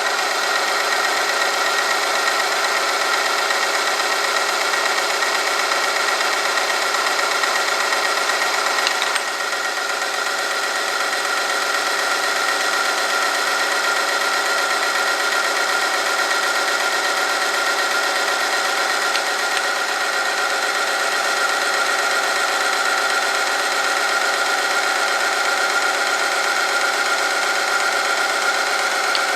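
Oil-film friction test machine running under load: its motor and the steel test sample rubbing in the oil make a steady, many-toned mechanical whine. The sound drops slightly with a faint click about nine seconds in.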